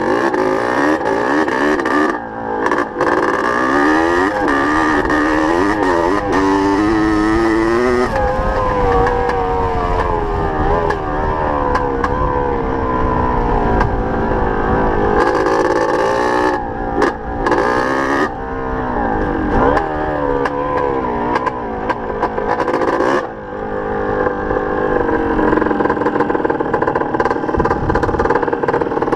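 Small off-road motorcycle engines revving hard and changing gear, the pitch climbing and dropping again and again, with a few short dips where the throttle is shut off.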